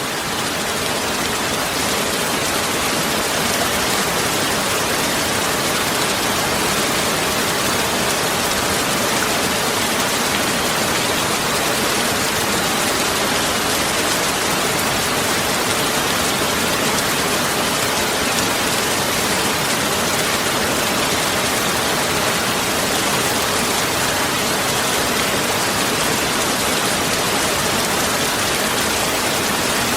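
Heavy rain falling steadily as a dense, even hiss, swelling slightly in the first couple of seconds and then holding constant.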